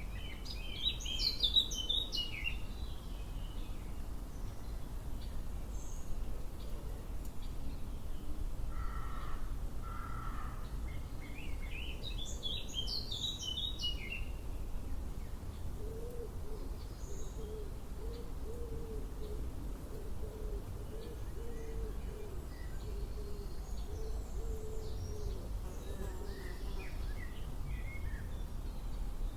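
Wild birds singing outdoors: two bursts of quick, high songbird song, about a second in and again about twelve seconds in, with two short lower calls between them. A long wavering low tone runs through the second half, and a steady low rumble sits underneath throughout.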